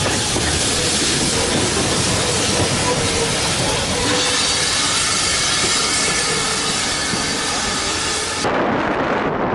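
Steam locomotive 7714, a GWR 5700 class pannier tank, hissing steam steadily. About eight and a half seconds in, the sound cuts off abruptly to a duller noise of wind on the microphone.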